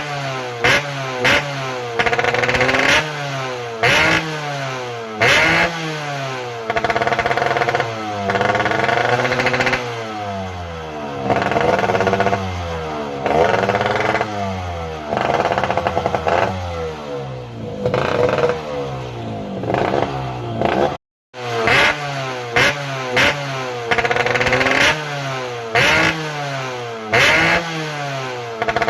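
Motorcycle with a hollowed-out (bobokan) exhaust being revved over and over: sharp throttle blips and longer revs that rise and fall in pitch. About 21 seconds in there is a brief dropout to silence.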